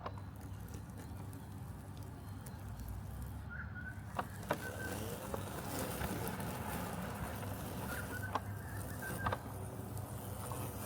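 Robotic lawn mower running with a steady low hum that grows slightly louder about four seconds in. A few sharp clicks and brief high chirps sound over it.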